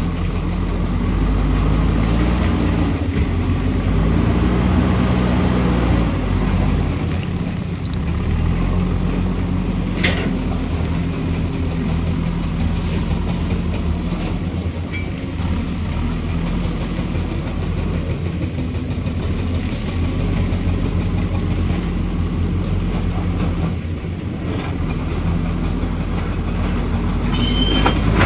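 Diesel engine of heavy construction machinery running steadily, its pitch shifting a little under changing load, with a sharp click about ten seconds in.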